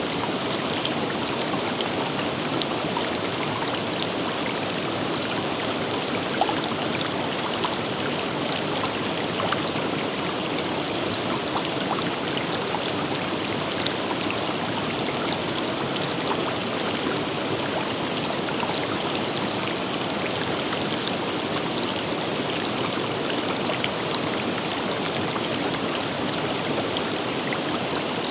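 A river running steadily over rocks, its even rush dotted with small splashes and droplet ticks.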